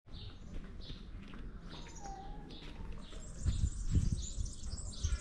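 Small songbirds chirping and twittering in short, high, repeated notes, with one lower whistled note about two seconds in. A few soft low thumps come a little past the middle.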